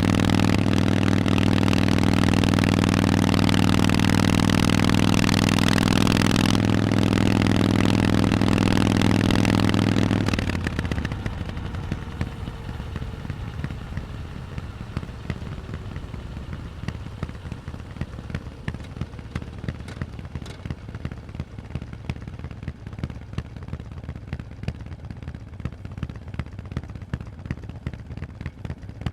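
Harley-Davidson Forty-Eight's air-cooled V-twin running at steady revs through Vance & Hines exhausts. About ten seconds in the engine sound falls away, leaving a much quieter noisy rustle with many small clicks.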